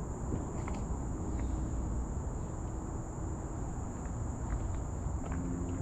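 A steady high-pitched insect drone from the surrounding forest, with a low rumble and a few faint scuffing footsteps on the trail.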